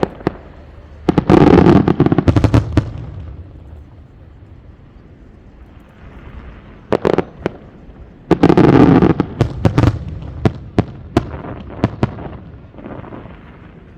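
Aerial fireworks going off in two volleys of rapid, loud cracking bangs, about a second in and again about eight seconds in, with scattered single sharp cracks between and after them.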